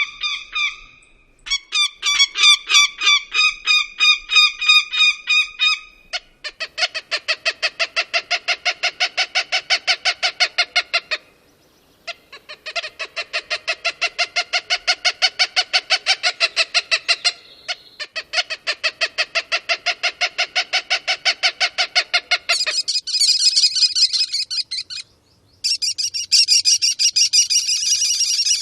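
Recorded bird calls in several successive runs: fast series of repeated, honking pitched calls, each run lasting a few seconds with brief breaks between them, the last two runs higher and thinner.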